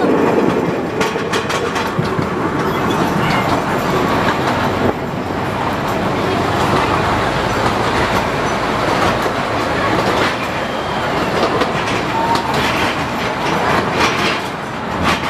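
Zoo ride train running along its track: a steady rolling rumble of wheels on rail with irregular clicks and clacks throughout.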